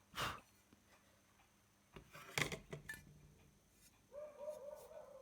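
Faint scrapes and clicks of metal parts being handled on a workbench, a heat sink being moved into place. A faint wavering tone comes in near the end.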